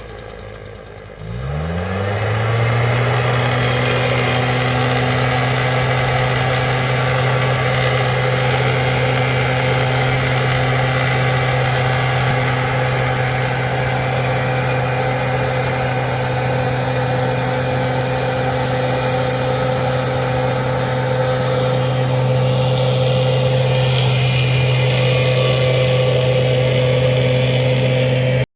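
An engine throttles up sharply about a second in, its pitch climbing from a low idle, then holds at a steady high speed.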